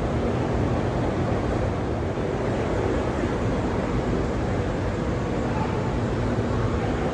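Steady drone of a truck assembly plant's machinery and ventilation: an even rushing noise with a low hum of a few steady tones underneath, unchanging throughout.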